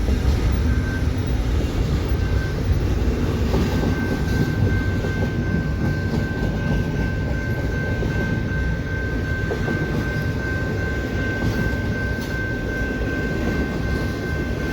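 A train passing over a level crossing: a steady, dense rumble of wheels and cars on the rails. A thin, high ringing tone is held over the rumble from about two seconds in.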